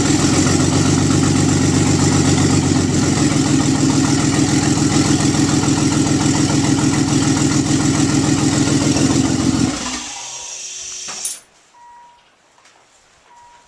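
Nissan 300ZX Twin Turbo's 3.0-litre twin-turbo VG30DETT V6 idling steadily on its first start after being pulled and resealed, then stopping about ten seconds in. A fainter hiss runs on for about a second and a half, then cuts off suddenly.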